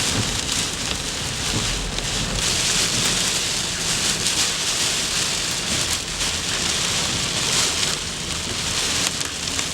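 Heavy rain from a thunderstorm pelting down steadily, with a few sharp ticks of small hail at the edge of the storm's hail core.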